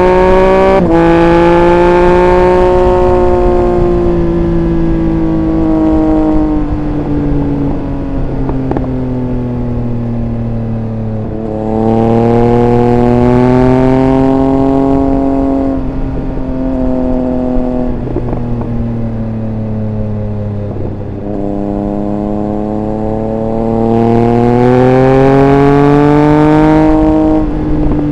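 Triumph Speed Triple 1200 RR's inline three-cylinder engine heard onboard while riding: three times the throttle is opened and the engine pulls hard with a climbing pitch, and in between it backs off to a quieter, lower note.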